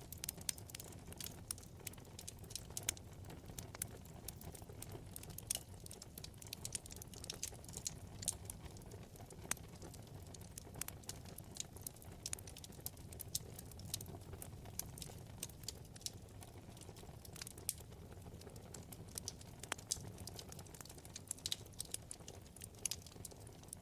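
Wood fire burning in a fireplace, crackling with a dense, irregular run of small sharp pops and now and then a louder snap, over a low steady rumble of the flames.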